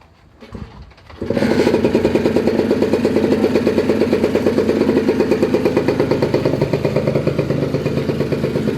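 Honda NS50F's single-cylinder two-stroke engine catching about a second in, then running with a fast, even pulsing beat.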